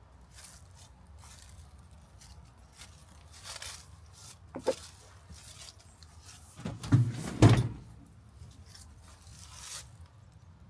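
Light rubbing and clicking, a sharp knock about five seconds in, and a loud double thump about seven seconds in.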